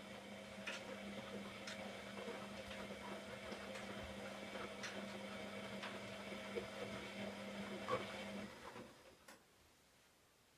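A small electric appliance humming steadily with faint clicks, then switching off about eight and a half seconds in.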